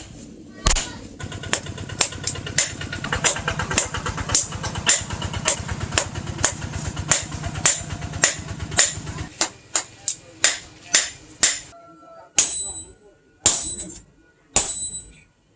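Hammer blows on hot bearing steel at the anvil, sharp strikes each followed by a ringing note. For about the first nine seconds a low, rapidly pulsing mechanical running sound lies under the blows. After it stops, the strikes come singly and ring out more clearly.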